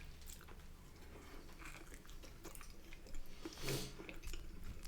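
Quiet chewing of food, with faint scattered clicks and a slightly louder bite about three and a half seconds in.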